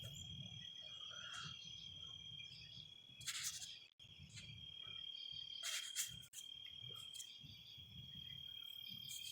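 Crickets chirring in a steady, high-pitched trill, with two short bursts of noise about three and a half and six seconds in.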